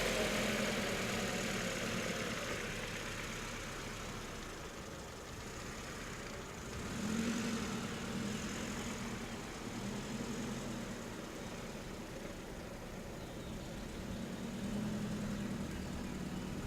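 Car engine idling with a steady low hum that swells slightly a few times.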